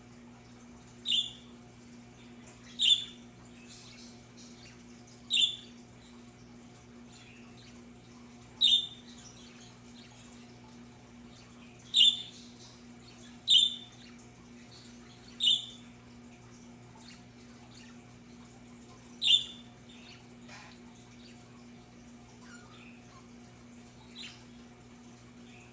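Budgerigar giving short, sharp squawking calls, about nine of them at irregular intervals of one to four seconds, over a faint steady low hum.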